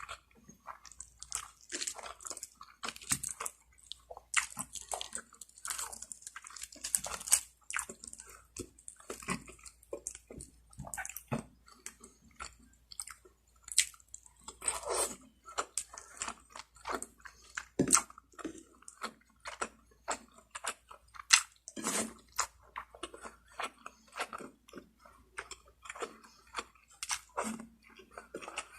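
Close-miked eating: a person chewing and biting into lechon manok (spit-roasted chicken), a dense run of irregular mouth clicks and smacks.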